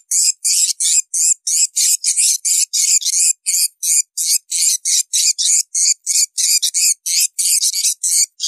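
Swiftlets twittering: a fast, unbroken run of short, high, buzzy chirps, about five a second. A swiftlet call sound of the kind played to lure swiftlets into a nesting house.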